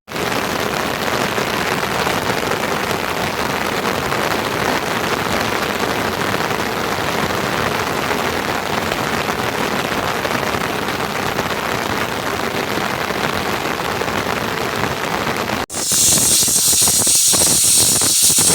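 Steady rain falling, an even hiss. Near the end, after a sudden cut, a louder and brighter hiss with a few short knocks takes over.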